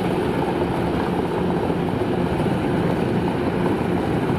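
Kubota DC-93 rice combine harvester running steadily, its diesel engine and threshing machinery making a continuous drone.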